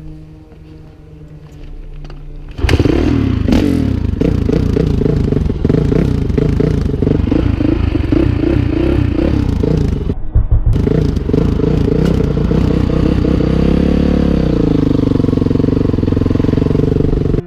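Dirt bike engine running hard after a quiet start, its note rising and falling as the rider accelerates and eases off, with a short break a little past the middle.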